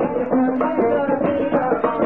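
Shahri folk music from southern Arabia: a quick drum beat under a melody.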